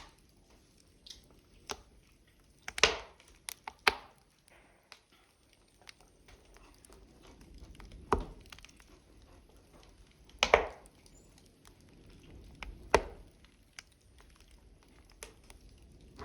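Burning logs crackling in a wood fire: irregular small snaps and ticks, with a handful of louder sharp pops spread through.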